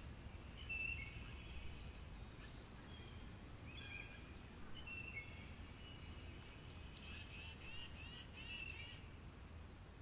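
Wild songbirds chirping and calling over a low steady background rumble, with a run of four short high notes in the first seconds and a rising whistle. About seven seconds in, a sharp high call stands out as the loudest sound, followed by a quick series of chirps, about four a second.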